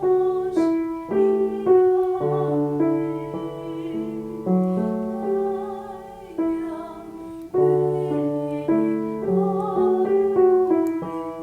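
Piano playing a slow accompaniment of held chords, the phrase starting over about two thirds of the way in. A female voice with vibrato sings faintly over it at times.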